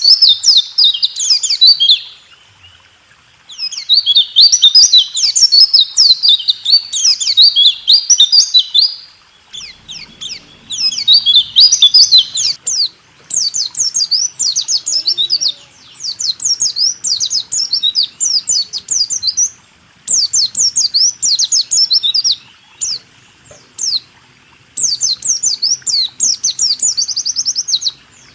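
White-eye (pleci) singing the 'rool tembak' song: phrases of rapid, sharp, quickly falling notes run together into rolling trills, with short pauses between phrases.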